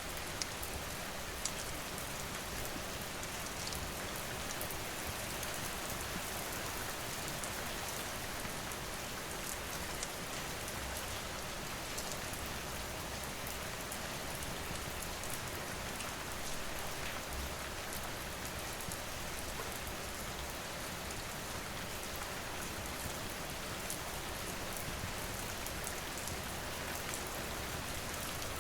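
Steady rain falling, with scattered sharp little clicks through it.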